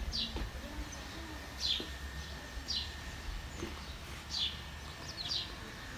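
A small bird chirping outdoors: short, high chirps that fall in pitch, repeated about once a second, with a quick double chirp a little after five seconds in, over a steady low rumble.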